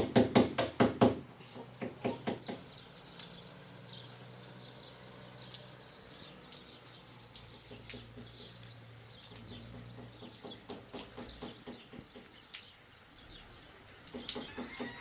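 A rapid run of loud knocks in the first second or so, a few more about two seconds in, then birds chirping faintly over a low steady hum.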